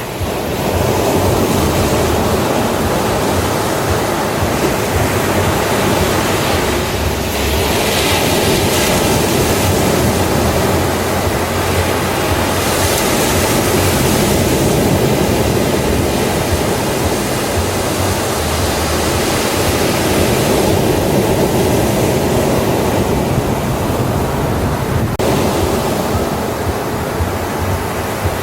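Ocean waves breaking and washing up a beach: a continuous rush of surf, growing brighter and hissier about eight seconds in and again around thirteen seconds.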